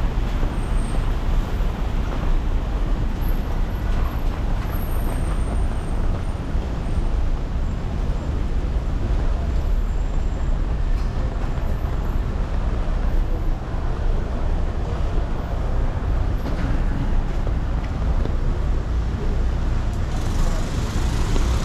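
Steady city street traffic noise: the continuous rumble of passing cars and larger vehicles.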